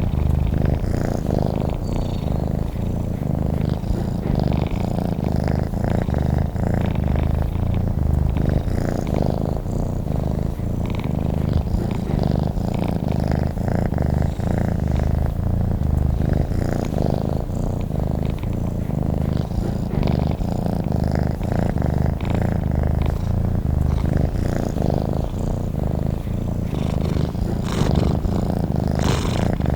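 Domestic cat purring continuously and steadily, close up: a low, rapidly pulsing rumble that goes on without a break.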